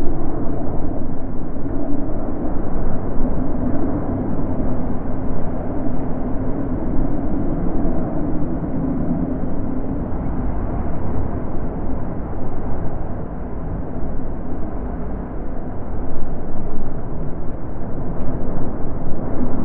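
Wind blowing steadily, a low, deep rushing that swells and eases gently in gusts.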